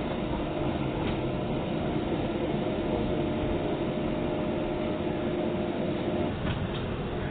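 Docklands Light Railway train humming steadily at a station platform. A higher steady whine stops about six and a half seconds in.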